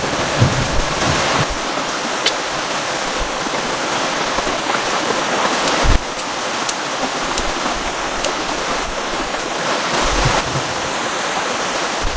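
Heavy rain pouring down steadily in strong wind, with a few sharp drip ticks and wind buffeting the microphone now and then.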